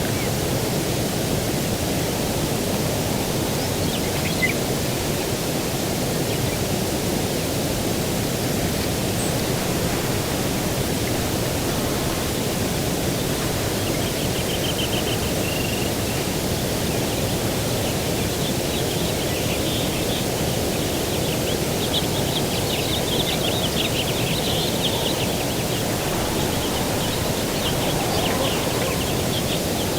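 Steady rushing outdoor ambience of breeze and distant surf, with small birds giving faint, high, rapid trills from about halfway on.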